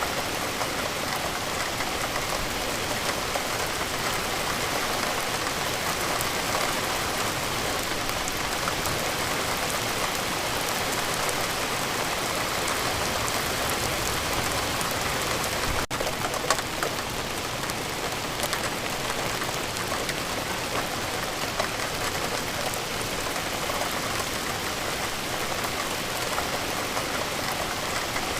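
Steady rainfall, with many small drops ticking on a surface, and a momentary break in the sound about halfway through.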